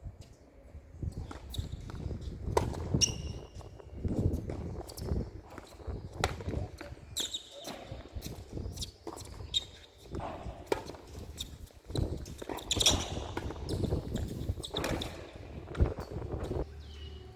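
Tennis ball being struck and bouncing, heard as sharp pops, the loudest about two and a half, twelve and sixteen seconds in, with players' footsteps on the court.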